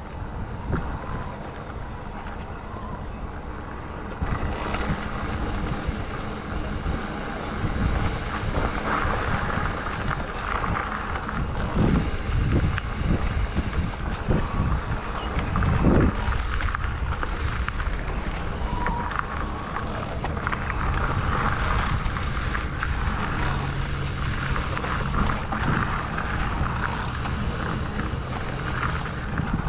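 Wind buffeting the microphone of a camera riding along on a moving e-bike, over a steady low rumble, with a few louder bumps near the middle.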